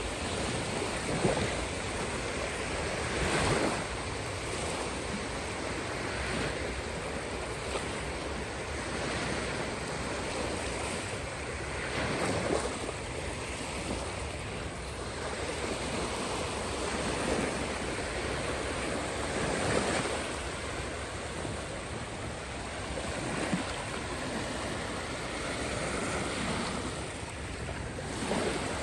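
Caspian Sea waves washing onto the shore, rising and falling every few seconds, with some wind on the microphone.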